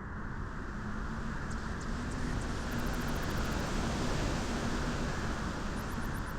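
Steady wind noise, swelling slightly about halfway through, with short runs of faint, rapid, very high-pitched chirping near the middle and again near the end.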